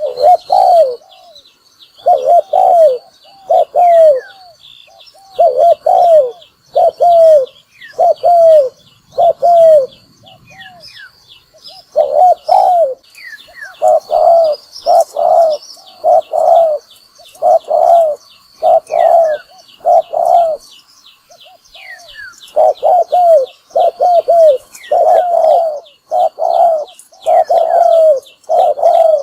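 Spotted dove cooing over and over: short, bending coos in runs of several with brief pauses between. It is a decoy dove's challenge call, the kind trappers play to lure wild spotted doves. Faint high chirping runs behind it.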